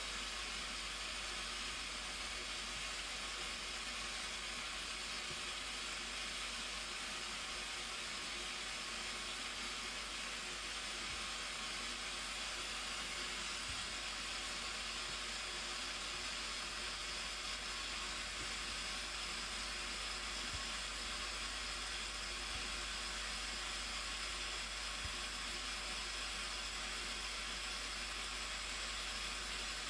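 Waterfall, a steady rushing of falling water with no change in level.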